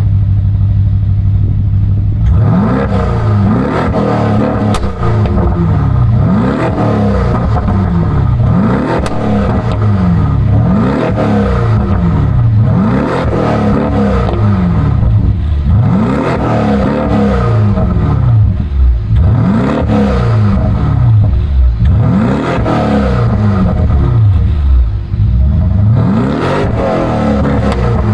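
BMW 750i's N63 twin-turbo V8 idling, then revved repeatedly from about two seconds in, roughly one rise and fall every two seconds. Crackles and pops come from the exhaust as the revs drop, the result of a Stage 1 tune set up for crackles.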